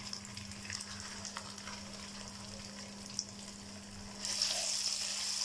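Hot oil sizzling around a lump of browned-onion and cashew paste in a nonstick pan, with a wooden spatula stirring it. The sizzle gets louder about four seconds in, once the spatula starts working the paste into the hot oil.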